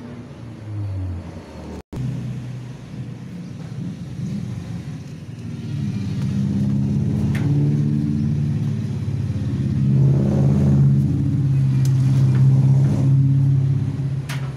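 Diamante spin dryer's motor and drum running: a steady low hum and rumble that builds and grows louder from about halfway through, after the drum's worn felt padding has been re-fitted to stop its rough, rattling noise.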